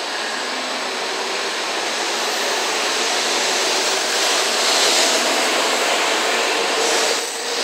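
Eight-car N700 series Shinkansen train pulling out and gathering speed, its steady rushing running noise with a faint motor hum growing louder about halfway through.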